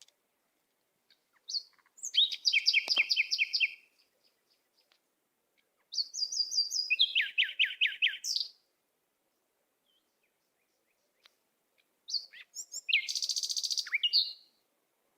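A songbird singing three short phrases of rapid repeated high notes, a few seconds apart.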